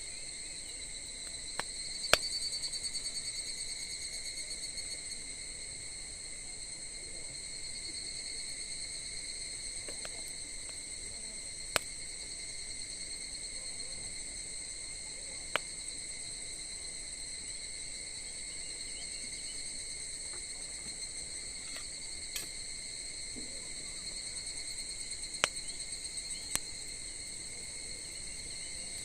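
A steady, high-pitched insect chorus runs throughout, broken every few seconds by a sharp pop or crackle from wood burning in a campfire.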